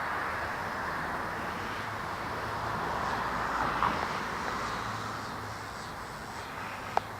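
A vehicle passing on a road, its steady noise swelling to a peak about halfway through and then fading, with a single sharp click near the end.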